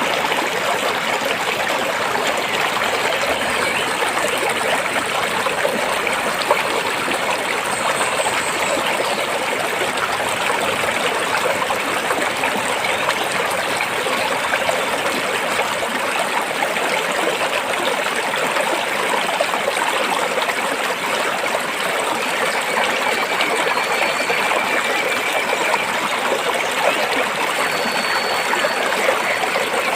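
A stream of water flowing over and between rocks, a steady rushing with fine trickling.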